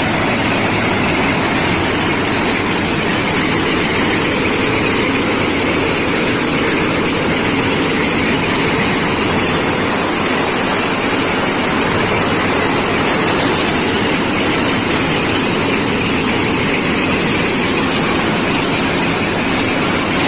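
Railway ballast cleaning machine running: a loud, steady mix of diesel engine and working machinery that does not change.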